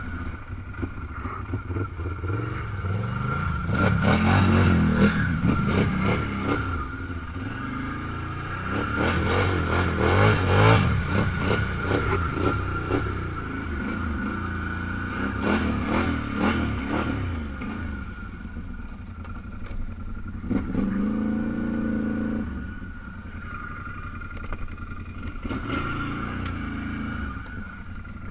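Off-road vehicle engine revving in surges as it is driven, loudest about four seconds in and again around ten seconds, with a steady high whine underneath.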